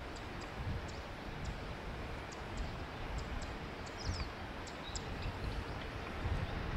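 Small birds chirping in short, high calls several times a second, with a brief falling chirp about four seconds in, over a low, uneven outdoor rumble.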